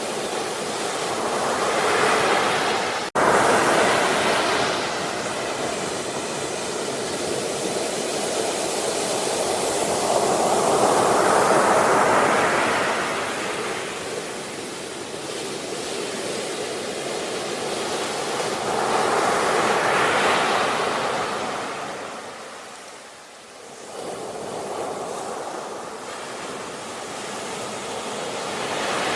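Ocean waves breaking and washing ashore, swelling and fading in slow surges about every nine seconds, with a brief dropout in the sound about three seconds in.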